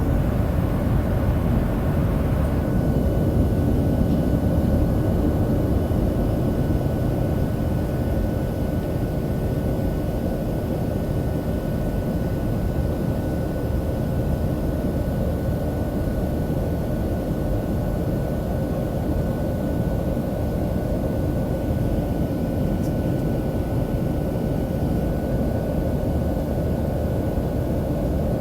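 Jet engines of a Boeing 737-700 (CFM56-7B turbofans) heard from inside the passenger cabin: a steady rushing roar with faint constant whining tones over it, a little louder in the first few seconds.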